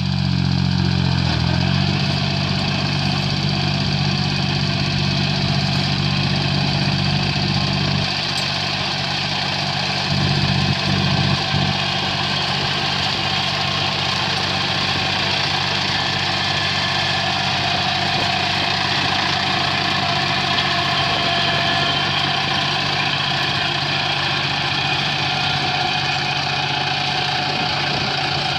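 An engine running steadily, its low hum dropping away about eight seconds in and coming back briefly a couple of seconds later.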